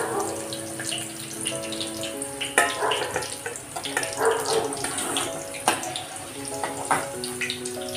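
Mushroom pieces sizzling in hot oil in a steel kadhai as a perforated steel skimmer lifts them out, the skimmer clinking sharply against the pan about three times. Soft background music with long held notes plays underneath.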